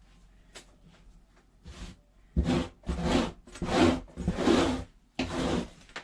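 A grooming brush or comb drawn through a cat's fur in about six short rubbing strokes. The first is faint and the rest come roughly every half second to second.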